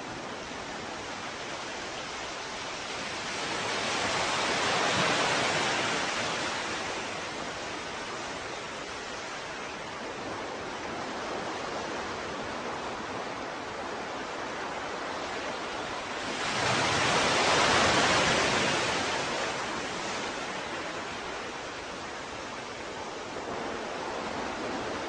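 Ocean waves washing on a shore, a steady hiss of surf with two larger waves swelling and fading, about four seconds in and again past the middle.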